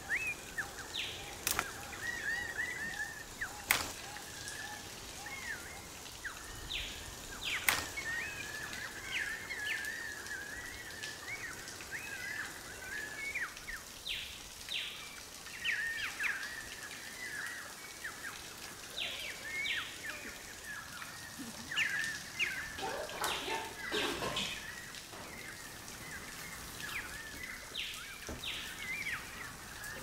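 Birds chirping and twittering in short, repeated calls, with a few sharp clicks scattered through.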